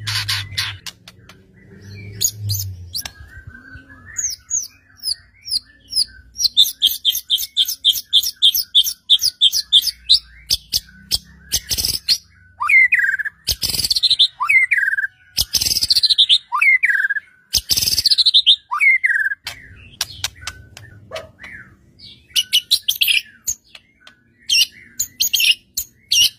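White-rumped shama singing vigorously. First comes a fast run of repeated high notes at about four a second. Then loud down-slurred whistled phrases repeat roughly every second and a half, mixed with sharp clicking notes.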